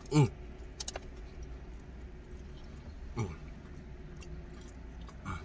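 A man chewing a mouthful of crunchy breaded fried nugget, with mouth clicks about a second in and three short hummed "mm" sounds that fall in pitch, near the start, midway and at the end. A low steady rumble lies under it all.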